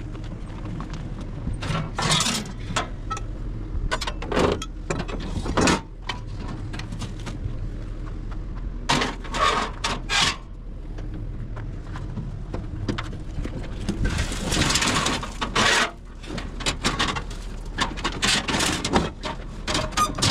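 Scattered clatters, knocks and scrapes of hard items being handled, in several flurries, over the steady low hum of an idling vehicle.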